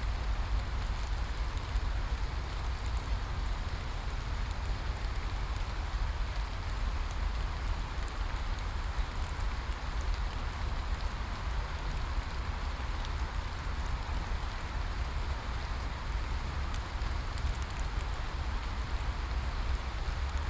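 Steady rain falling: an even hiss with fine scattered drop ticks and a low rumble underneath, unchanging throughout.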